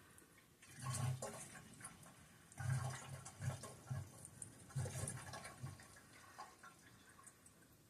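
Gasoline poured from a container into the fuel tank of a 5 hp Briggs & Stratton engine, faint liquid sounds in three spells of pouring about a second apart.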